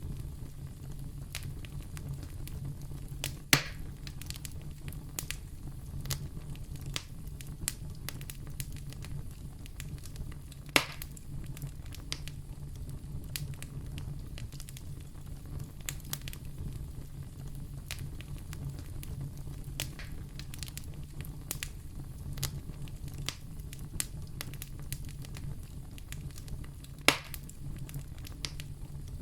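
Fire in a fireplace crackling, with a steady low rumble, many small clicks and three louder pops spread through.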